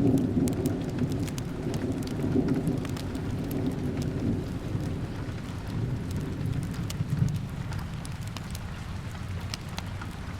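Steady rain falling on a window, with a low rumble that is strongest at first and fades away over the first eight seconds or so. Scattered sharp crackles from a wood fire sound through it.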